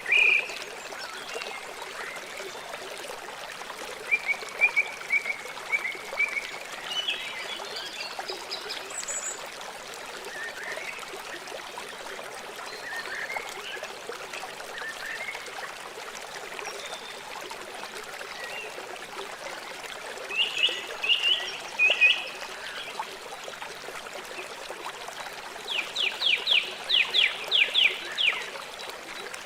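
River water flowing steadily, with birds calling over it in short series of high chirps, including a quick run of about eight notes near the end.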